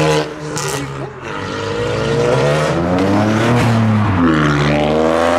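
Modified car's engine accelerating hard, its pitch climbing, dropping sharply just before four seconds in, then climbing again.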